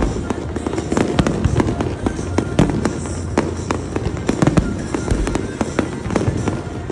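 Fireworks display exploding in rapid irregular succession, many sharp bangs and crackles a second over a continuous low rumble of further bursts.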